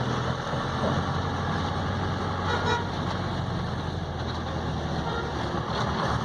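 Road traffic on a hill road: a vehicle engine running steadily, with a short horn toot a little before the middle.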